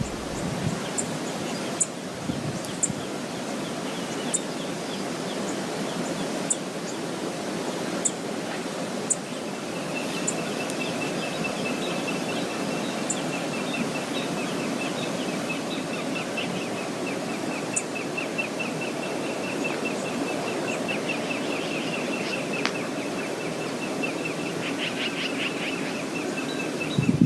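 Steady rushing of the waterfall at Brooks Falls. About ten seconds in, a bird's rapid, high trill starts and keeps going over it.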